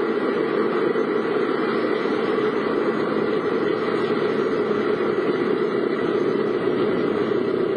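Steady vehicle noise heard from inside a car: the engine running at an even level with a constant hiss over it.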